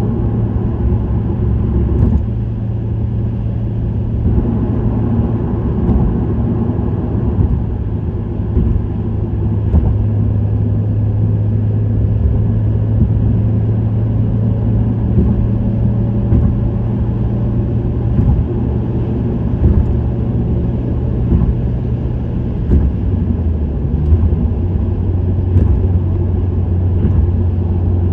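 Subaru WRX STI's turbocharged flat-four cruising steadily, with the low exhaust drone of an STI Performance muffler. A few seconds before the end the drone drops a little in pitch as the revs fall.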